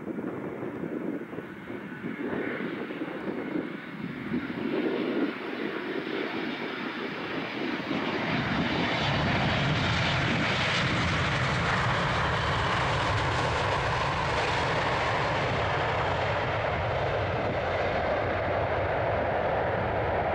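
Boeing 777-200ER's twin General Electric GE90 turbofans passing on approach to land. The engine noise grows and becomes loud about eight seconds in, then holds as a steady roar to the end.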